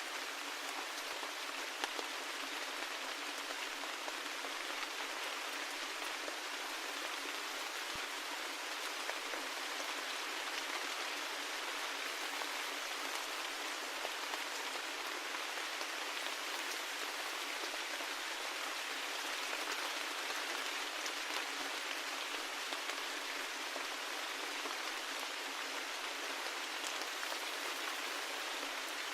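Steady rain falling, an even hiss of many drops with faint scattered patters and no low rumble.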